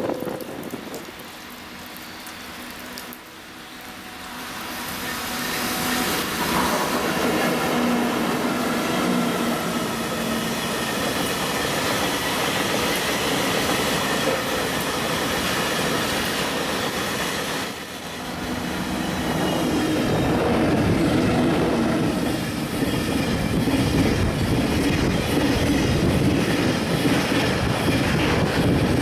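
A freight train of empty oil tank wagons rolling past at close range. Its wheels rumble and clatter over the rails. The sound builds from about four seconds in, dips briefly a little past halfway, then grows louder again.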